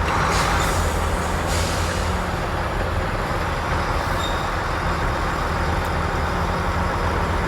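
Semi truck's diesel engine running steadily at low speed, with two short air hisses near the start, about half a second and a second and a half in.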